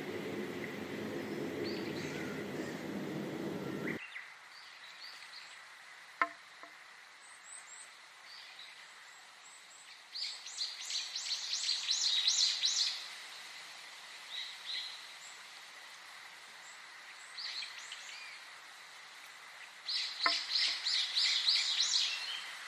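Songbirds singing: scattered high chirps and two bursts of rapid, repeated notes, about ten seconds in and again near the end, over a faint steady high tone. For the first four seconds a low rumble underlies the birds, then cuts off suddenly.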